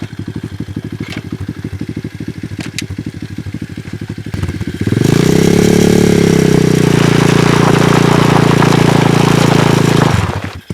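125cc pit bike's single-cylinder engine idling with a steady firing beat, then held at high revs for about five seconds with a broad hiss of the spinning rear tyre: a burnout. Near the end the engine sound drops away suddenly and the engine dies.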